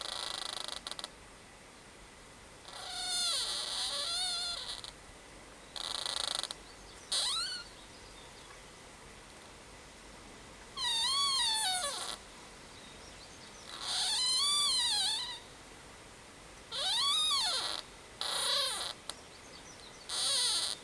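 A tree creaking: about six drawn-out, wavering squeals, each a second or so long, rising and falling in pitch, with rougher rasping creaks between them.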